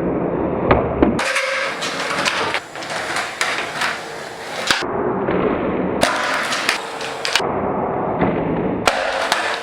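Skateboard rolling on a hard surface, with sharp wooden clacks and thuds of the board popping and landing several times.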